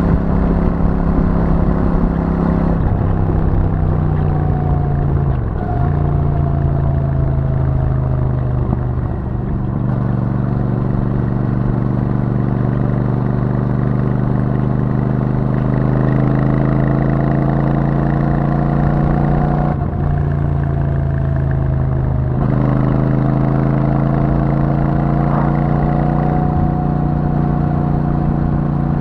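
Royal Enfield Super Meteor 650's 648 cc parallel-twin running through its stock exhaust while the bike is ridden at cruising pace. The engine note climbs slowly as the revs build, with a few brief dips in revs along the way.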